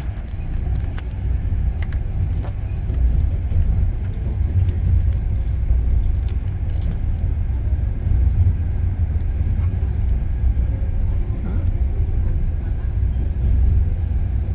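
Steady low rumble of a passenger train running along the track, heard from inside a coach, with scattered light clicks and rattles.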